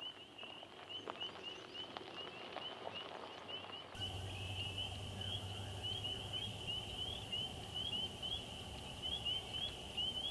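Frog chorus: many short, rising, high-pitched peeps overlapping several times a second. A low hum joins about four seconds in.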